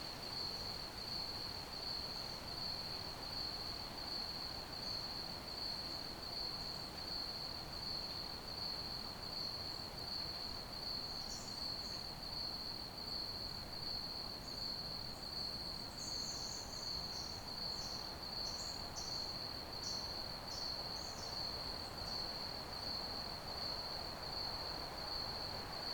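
Crickets chirping in a steady chorus: a continuous, rapidly pulsing trill held at one high pitch over a soft background hiss. A few higher, irregular chirps come and go in the middle.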